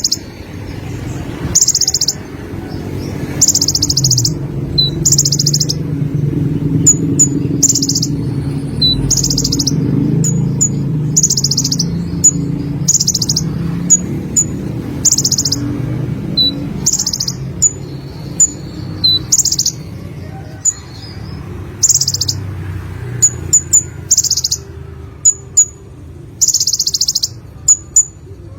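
Konin (kolibri, a sunbird) singing: loud, rapid high-pitched trilled phrases about half a second long, repeated a little over once a second. Short sharp high chips fall between them, more often toward the end. A low background rumble runs underneath, fading in the second half.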